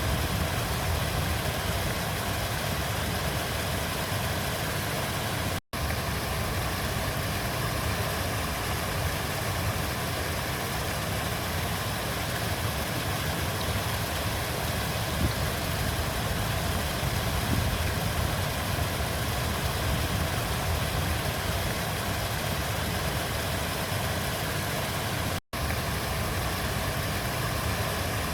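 River water flowing: a steady rushing noise, heaviest in the low rumble, that drops out for an instant twice.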